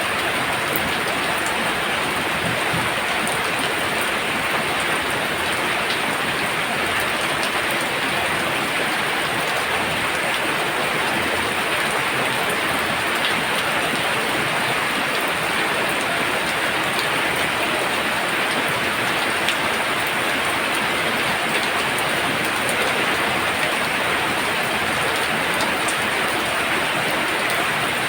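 Heavy rain falling steadily: a dense, even hiss of downpour with scattered drops ticking.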